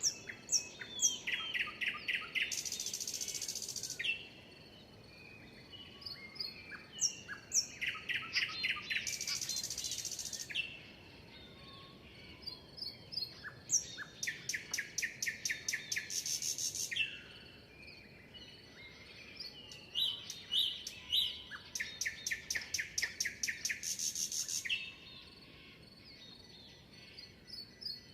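A songbird sings the same song four times, about every six seconds: a few high notes, a fast trill of short repeated notes, then a buzzy, hissing ending. Fainter chirps from other birds fill the gaps between songs.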